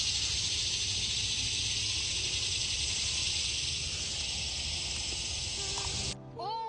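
Steady high-pitched insect chorus, with a low rumble underneath. Both cut off abruptly about six seconds in, and music with sliding tones begins.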